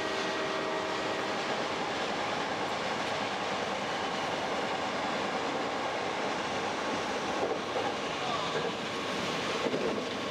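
Hankyu 6300-series electric train running at speed, a steady rolling noise of wheels on rail heard from the front of the train. A faint hum of steady tones stops about a second and a half in.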